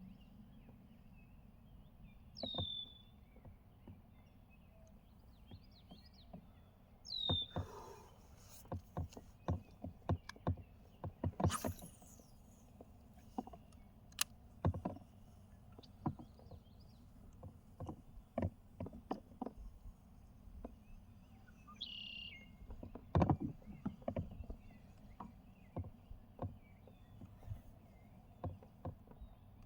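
Scattered knocks and clicks of gear being handled aboard a fishing kayak, some close together, with a few short high chirps that glide downward.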